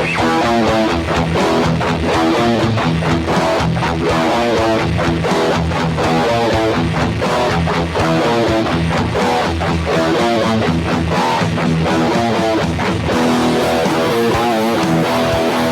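Electric guitar played through a distortion effect, a fast riff of quickly changing notes.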